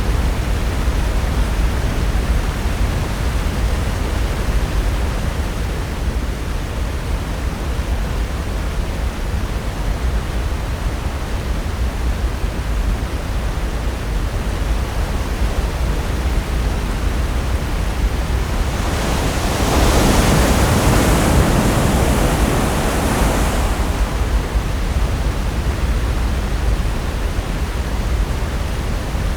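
Pacific Ocean surf breaking on the shore, a steady rushing wash with one louder wave crashing and hissing for several seconds about two-thirds of the way through.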